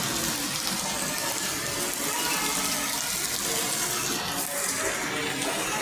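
Heavy tropical rain pouring down: a steady, dense rushing of water.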